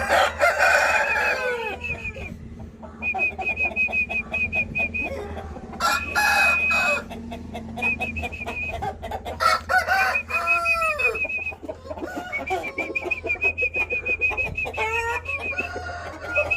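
Aseel chickens clucking and calling, with many short falling calls, while a high warbling trill comes and goes in the background.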